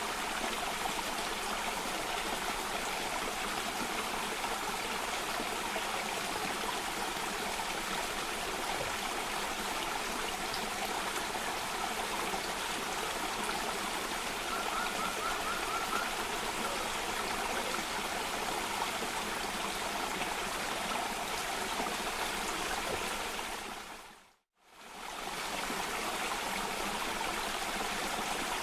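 Cascading water running steadily as a continuous rushing noise. About three-quarters of the way through it fades out to silence for a moment and fades straight back in.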